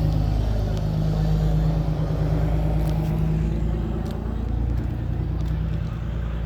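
A motor vehicle engine running steadily, a low, even hum whose strongest tone fades about three and a half seconds in, leaving a lower rumble.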